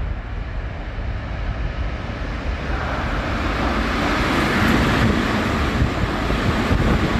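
Electric commuter train running through a station platform at speed without stopping. A rush of wheels on rail grows louder as it nears and is loudest in the second half, with gusts from its passing buffeting the microphone.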